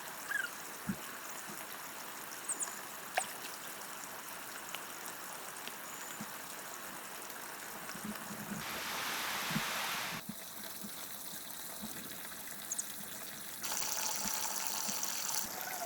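Running, trickling water. It changes abruptly a few times, louder and fuller from about halfway to two-thirds of the way through and again near the end, with a few light clicks over it.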